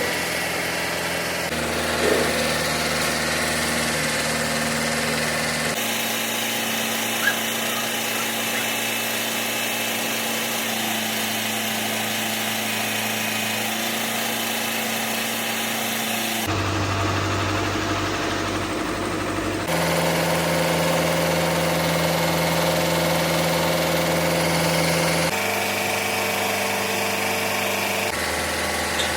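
Engine running steadily, its pitch and tone changing abruptly several times where one clip gives way to another, with a couple of short clicks.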